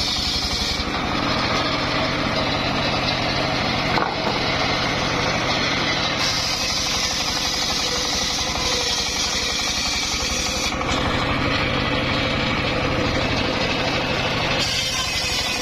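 Engine of a home-built circular sawmill running steadily with a fast low throb. Its upper hiss drops away and comes back several times as the load on the rig changes.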